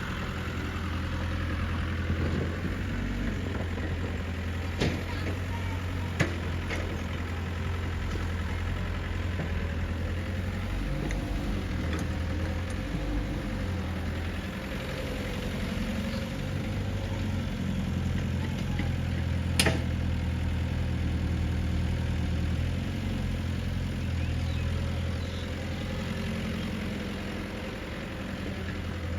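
Heavy diesel engines of a tractor and a JCB loader running steadily near idle, with a few sharp knocks; the loudest comes about two-thirds of the way through.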